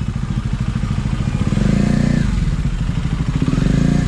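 Motorcycle engine running under the rider, its pitch rising as it accelerates about halfway through and then easing off again.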